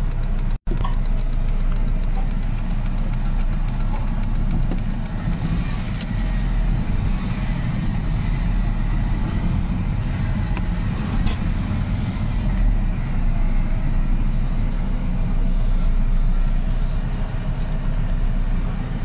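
Steady low rumble of a vehicle's engine, heard from inside the cabin.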